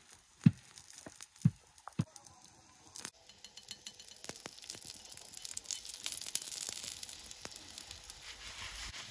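Three dull knocks in the first two seconds. After about three seconds, a chapati sizzles and crackles on a hot flat iron pan over a wood fire as it is turned.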